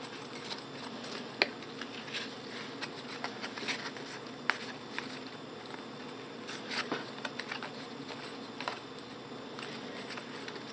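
Trading cards and pack wrappers handled by hand, with faint scattered clicks and short rustles. A steady low hum runs underneath.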